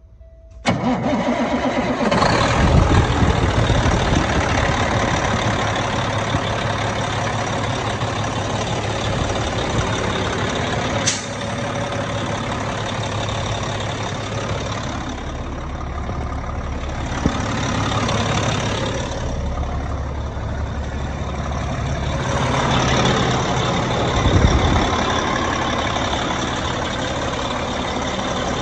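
2006 Peterbilt 378 semi truck's diesel engine starting up about a second in, revving briefly, then idling steadily. It is revved once more late on, and there is a single sharp click partway through.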